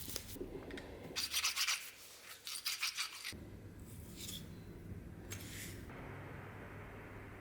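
Sandpaper rubbing by hand on an old spinning wheel's wooden parts: a quick run of scratchy back-and-forth strokes, a second run, then two single strokes.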